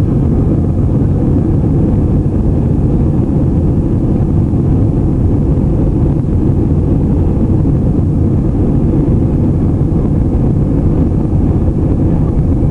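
Airplane engines during takeoff: a loud, steady, low roar.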